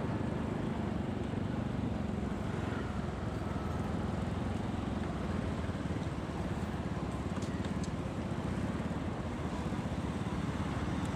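Motorcycle running at a steady pace on the road: even engine and road noise with no change in speed.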